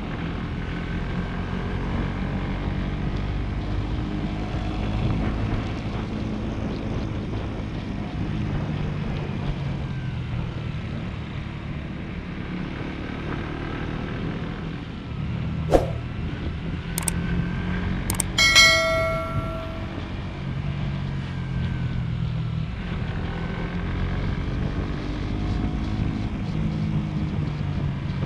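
Motorcycle engine running under way, its pitch rising and falling as the rider works the throttle, with wind on the microphone. About two thirds in come a few sharp clicks and a short pitched beep.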